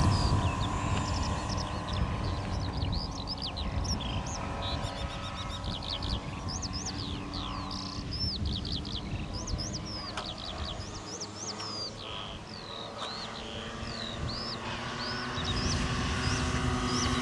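Small birds chirping and twittering in quick rising and falling calls, over a low wind rumble. The propeller drone of a giant-scale RC Transall C-160 model fades away early on and grows louder again near the end.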